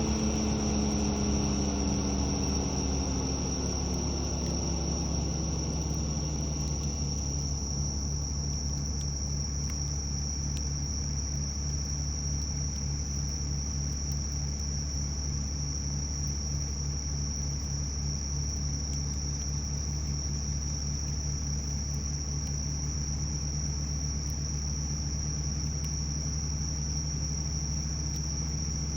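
Bell crickets (suzumushi) singing in a steady, continuous high-pitched trill. Under them runs a low mechanical drone that falls in pitch over the first few seconds and then holds steady.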